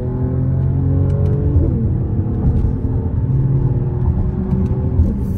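Mercedes-AMG GLE 53's turbocharged inline-six accelerating in sport mode, its pitch slowly climbing, with a brief break about a second and a half in and another near the end, typical of gear changes.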